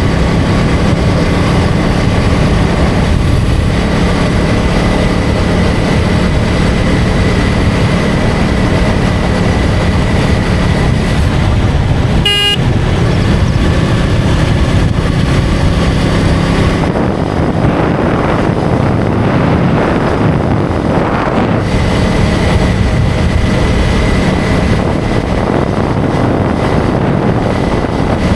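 KTM Duke 250's single-cylinder engine running steadily under way, with road and wind noise. A short horn beep sounds about twelve seconds in. For a few seconds past the middle the engine tone drops back under a rush of noise, then returns.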